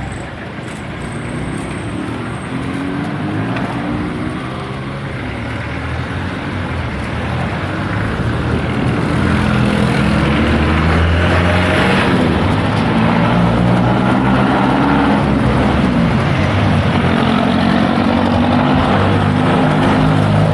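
Road traffic: motor vehicle engines running close by, growing louder about eight seconds in and then holding a steady hum.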